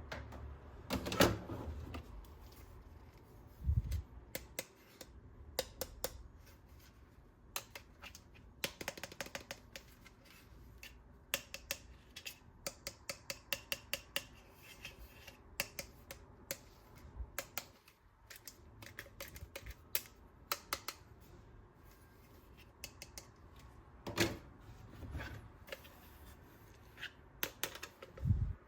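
Hard plastic toy parts being handled: irregular clicking and clattering, with quick runs of clicks now and then and a couple of dull thumps.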